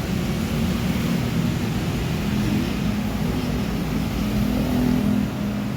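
Steady low engine drone with a hum, easing slightly near the end.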